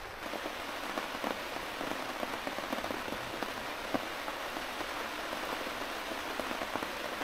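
Steady rain falling, with scattered individual drops tapping, heard from inside a canvas tent with its door open.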